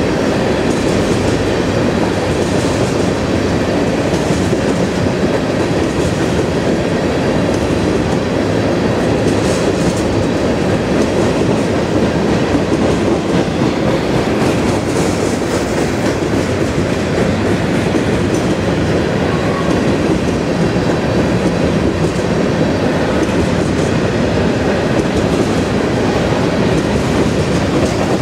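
Covered hopper cars of a BNSF grain train rolling steadily across a steel trestle, their wheels on the rails making a constant deep rolling noise that doesn't change.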